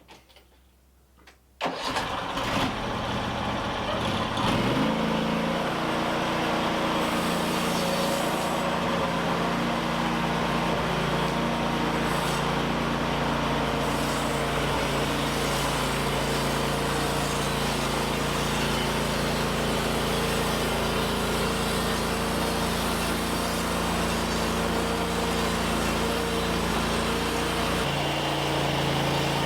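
An engine starts suddenly about two seconds in, settles within a few seconds, and then runs steadily at a constant speed.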